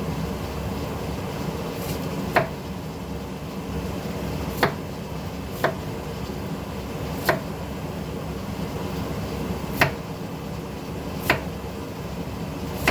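Seven sharp kitchen knocks, spaced unevenly one to two and a half seconds apart, each with a brief ring, over a steady hum.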